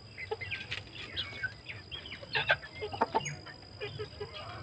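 A flock of desi (native) chickens clucking and calling in short, overlapping notes, with a few louder sharp sounds about two and a half to three seconds in.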